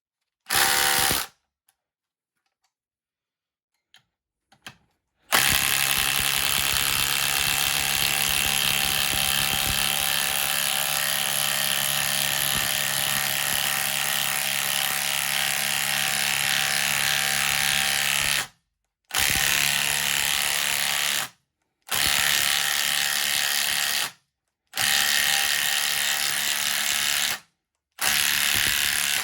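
Milwaukee M18 Fuel Gen 3 cordless impact driver hammering as it drives lag screws into a wooden log with a socket adapter. There is a short burst at the start, then one long run of about 13 seconds, then four bursts of two to three seconds each, with short pauses between them.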